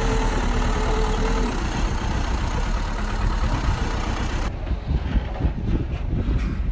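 Bulldozer's diesel engine running heavily, its steady whine dropping about a second and a half in. About four and a half seconds in, the sound changes abruptly to a lower rumble with irregular knocks and clanks.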